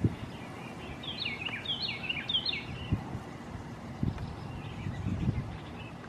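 A songbird sings a short phrase of about three repeated whistled note pairs, each falling in pitch, starting about a second in, with fainter notes later. A few low thumps sound underneath, the loudest right at the start.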